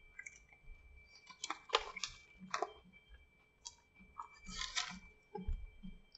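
A person chewing a mouthful of chicken wrap with crispy jalapeños: scattered short crackling, clicky mouth noises. In the last second or so there is a soft low chewing beat about twice a second.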